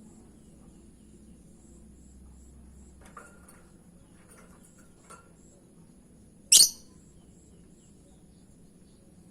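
Lovebird giving one loud, sharp, very short shriek about six and a half seconds in, with a few faint chirps before it.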